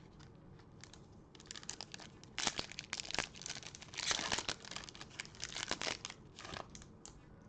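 A trading-card pack's foil wrapper being torn open and crinkled by hand, crackling on and off for about five seconds from about a second in.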